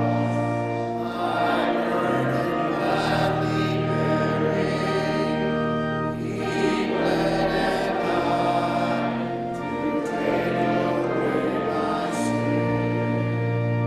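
A group of voices singing a hymn together to organ accompaniment, with long held chords over a sustained bass note.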